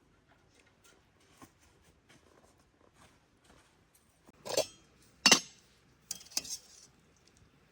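Kitchenware being handled: faint scattered clicks, then three sharp clinks about a second apart, a little past the middle.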